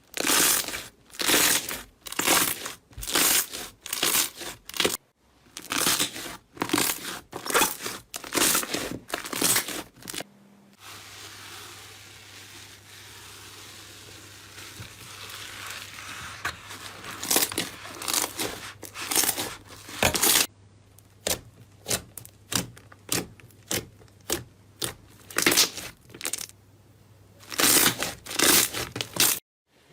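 Slime being squeezed and pressed by hand, giving repeated crackling squishes roughly one or two a second, with a softer steady crackle for several seconds near the middle.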